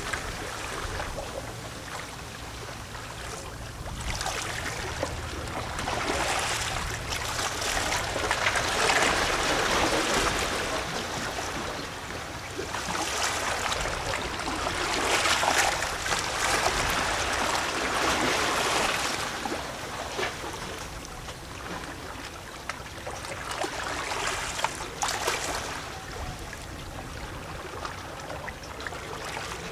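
Small sea waves lapping and gurgling against shoreline rocks, swelling and ebbing every few seconds.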